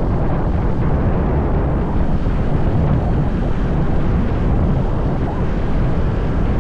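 Wind buffeting the microphone of a camera on a moving motorbike: a steady, loud low rumble.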